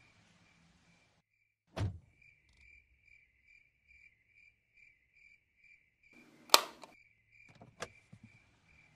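Crickets chirping in a steady pulse, about two to three chirps a second, dropping out briefly about a second in. A dull thump comes about two seconds in, and a sharp bang, the loudest sound, about six and a half seconds in, followed by two quieter clicks.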